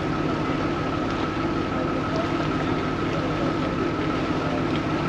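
Vaporetto water bus's diesel engine running steadily under way: an even low drone with a steady thin whine above it.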